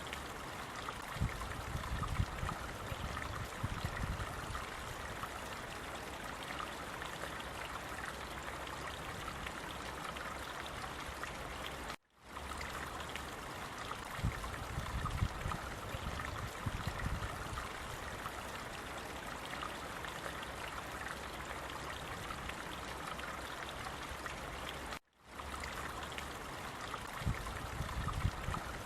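Running water, a steady splashing rush with bouts of low rumble. It cuts out abruptly twice, about 12 and 25 seconds in, and fades straight back in.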